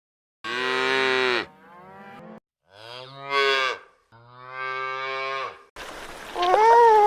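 Cow mooing: three long, low moos, the first the loudest. Near the end a different recording begins, with background noise and one shorter, higher call that rises and falls.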